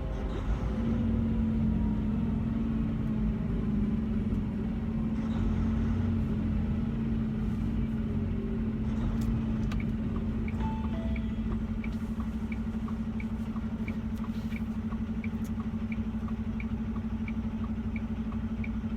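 Semi truck's diesel engine running steadily, heard inside the cab. From about halfway through, the turn signal ticks evenly, about every 0.6 seconds, signalling a turn.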